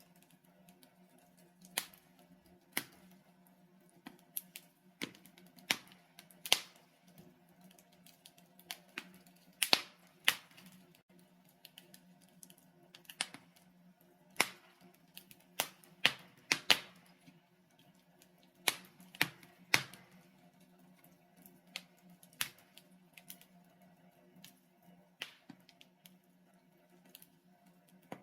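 Wood logs burning in a fireplace, crackling with sharp irregular pops and snaps, roughly one or two a second and some much louder than others, over a faint steady low hum.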